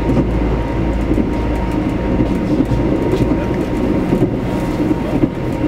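A passenger train running on the rails, heard from inside the carriage: a steady rumble of wheels on track with scattered clicks.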